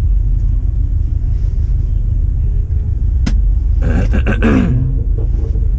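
Steady deep rumble of a car running, with a sharp click a little over three seconds in and a short burst of sound with a falling pitch about a second later.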